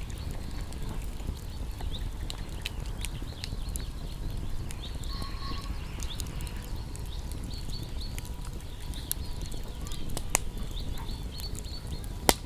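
Wood fire crackling with irregular sharp pops and a couple of louder snaps near the end, over a low steady rumble, while small birds chirp throughout.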